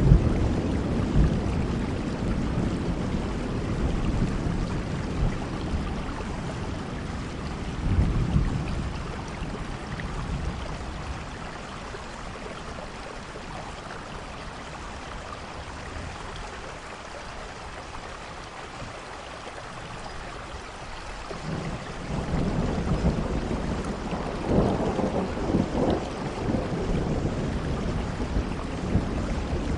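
Steady rainfall with low rolls of thunder. A rumble fades over the first few seconds and another swells about eight seconds in; after a quieter spell of rain alone, thunder rumbles again through the last third.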